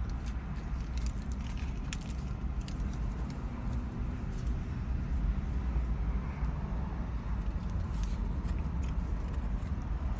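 Someone biting and chewing a hard waffle chicken sandwich, with faint crackles and clicks, over a steady low rumble.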